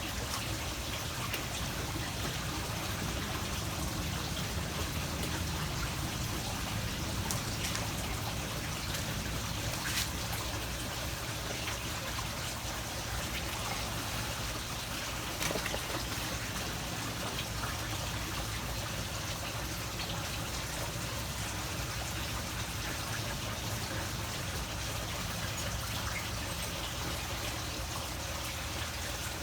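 Water trickling steadily, with a few faint ticks and drips.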